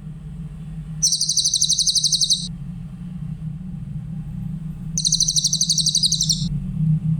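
Cililin bird song: two rapid, high-pitched trills, each about a second and a half long, the first about a second in and the second about five seconds in. A steady low hum runs underneath.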